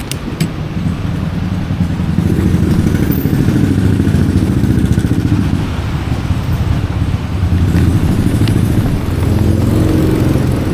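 Honda Forza 350 scooter's single-cylinder engine pulling away and running, getting louder about two seconds in, easing briefly midway and then picking up again. A couple of sharp clicks at the very start.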